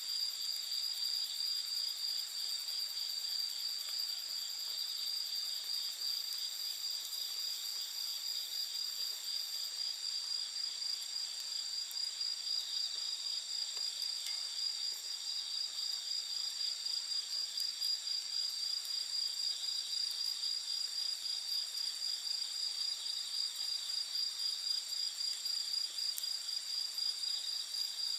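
A steady chorus of night insects trilling continuously at a high pitch, with a few faint scattered ticks from the campfire crackling.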